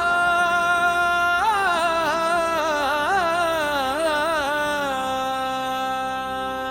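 A solo voice sings a wordless melodic line over a steady drone. It starts on one long held note, breaks into a wavering, ornamented run about a second and a half in, and then settles onto another long held note.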